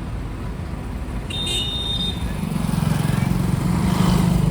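Motor vehicle engine running with road rumble, its hum growing louder about two seconds in. A short high beep sounds about a second and a half in.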